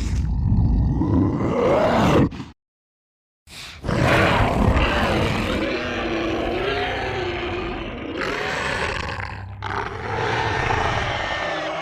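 Two monster growl sound effects for the Kothoga creature: a rough growl that breaks off about two and a half seconds in, then after a second's silence a long, wavering growl that runs on for the rest.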